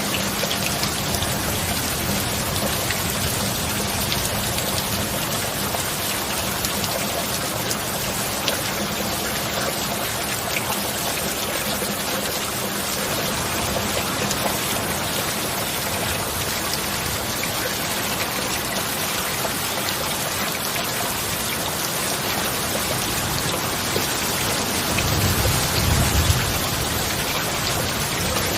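Steady heavy rain falling without a break, with a low rumble of thunder swelling briefly near the end.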